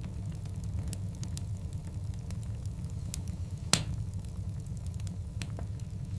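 Wood fire of large logs burning, a steady low rumble with scattered crackles and one loud pop a little past halfway.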